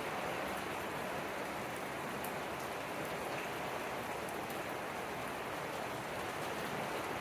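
Steady rain falling, an even pitter-patter with no let-up.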